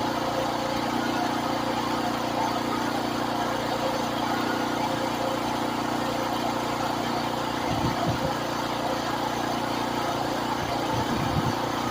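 Pressure washer running steadily: a motor hum under the even hiss of the water spray.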